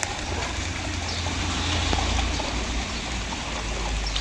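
Steady rushing of rain-fed floodwater, an even wash of water noise with a low rumble underneath.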